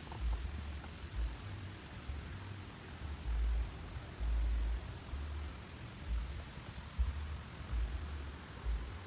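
Steady hiss of heavy rain, with irregular low rumbles coming and going throughout.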